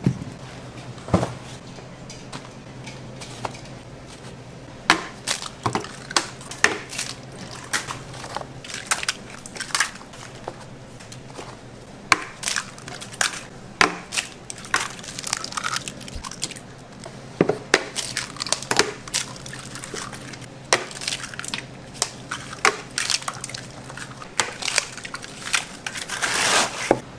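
Food preparation in a restaurant kitchen: irregular knocks and clatters of utensils and food on boards and containers, over a steady low hum.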